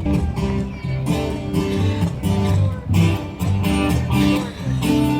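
Live acoustic music: strummed and plucked guitars over a bass line, in a country or bluegrass style.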